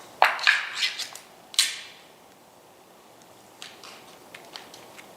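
Cat food being served: a few sharp scraping, rustling noises from the food and its container in the first two seconds, then quiet with a few faint clicks.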